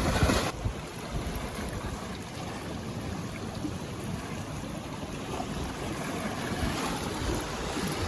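Strong wind buffeting the microphone outdoors: a steady rushing noise with uneven low rumbling gusts, loudest in the first half second.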